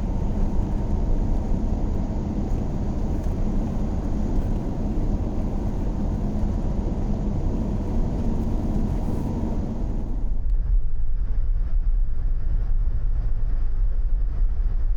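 Car on the move: a steady low rumble of engine and road noise. About ten seconds in, the higher hiss drops away and a deeper rumble remains.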